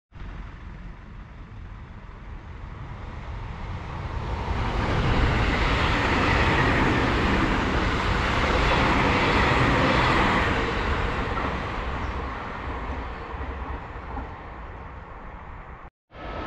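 Seibu 001 series Laview limited express running past at speed, its rumble and wheel noise building as it approaches. It is loudest for several seconds in the middle and then fades away as it recedes.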